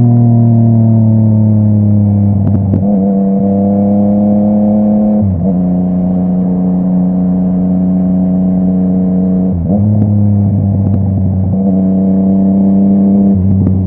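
Yamaha MT-09 three-cylinder engine through a full Akrapovic exhaust, running under way at fairly steady revs. The note sags slowly and dips briefly three times, about 3, 5 and 10 seconds in, before steadying again.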